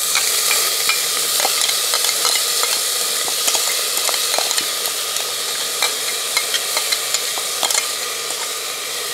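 Crushed shallots, ginger and garlic sizzling in hot coconut oil in an aluminium pressure cooker, with a spoon scraping and tapping the paste out of a steel mixer jar in short clicks.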